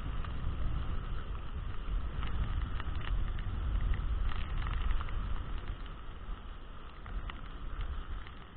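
Strong wind buffeting the microphone in a steady low rumble, over the hiss of heavy rain, with scattered faint taps.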